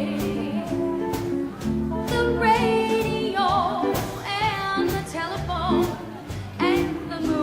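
Live swing band playing a slow ballad, a woman singing long notes with vibrato over bass and a light steady beat on the drums.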